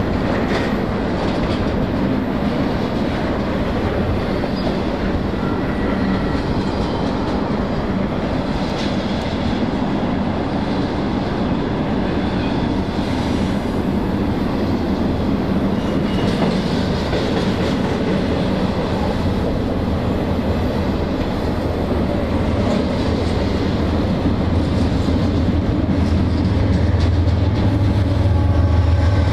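Freight train cars rolling past on steel rails, their wheels clattering steadily over the rail joints. A deep diesel locomotive drone builds over the last few seconds.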